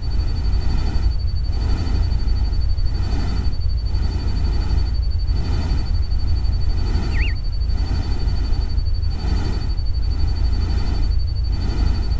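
Looped nature-sounds soundtrack: a loud steady low rumble with a soft wash of noise swelling about every second and a half, a thin continuous high tone like a cricket, and one short warbling chirp about seven seconds in.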